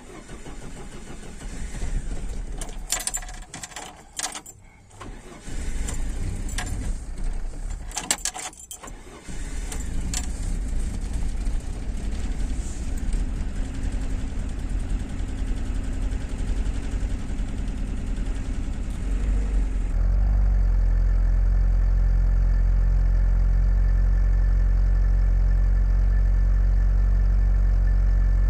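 Cold start of an IZh 2126 Oda's carbureted VAZ engine with the choke pulled: it catches and runs roughly, falters twice, then keeps running and settles into a steady idle. The owner suspects trouble with the ignition or the timing chain, throwing the valve timing slightly off.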